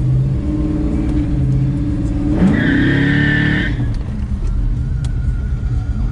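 Engine of a restomod 1970 El Camino running under way, rising sharply in revs about two and a half seconds in, with a high squeal lasting about a second as it pulls.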